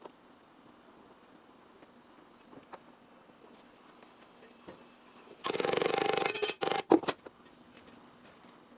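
Welding arc crackling as a new sheet-steel panel is welded into a car's floor tunnel. It starts about five and a half seconds in, runs for over a second, and is followed by three short tack bursts.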